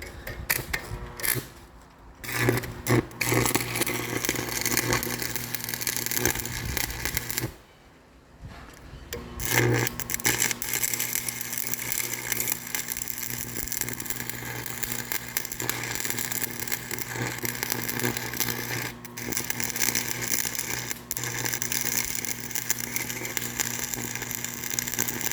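Electric power tool running with a steady motor hum and hiss. It starts after a few clicks about two seconds in, stops briefly near the middle, starts again and runs until it cuts off suddenly at the end.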